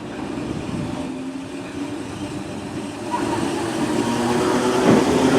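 Electric multiple unit's motors and wheels running on the rails, with a steady hum and whine that grows louder about three seconds in and peaks near the end.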